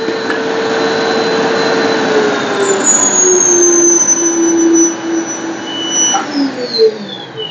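Black & Decker VM1680 1600 W cyclonic canister vacuum cleaner running with a steady whine; its pitch drops a step a little after two seconds. Near the end it is switched off and the motor winds down, its whine gliding lower as it fades.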